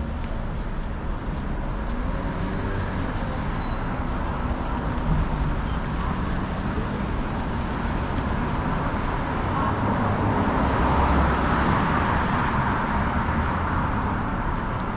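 City street traffic: a steady wash of passing vehicles, swelling as a louder vehicle goes by about two-thirds of the way through.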